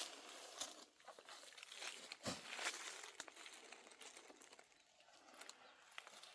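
Faint dry rustling and crackling of wheat stalks being handled, with scattered small clicks.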